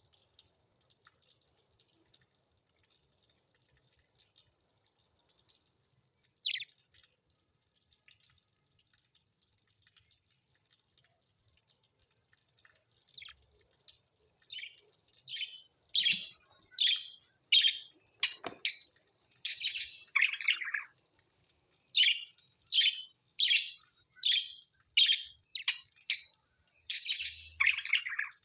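Bird calls: faint high chattering at first, then from about halfway a run of loud, short, high-pitched calls, roughly one a second.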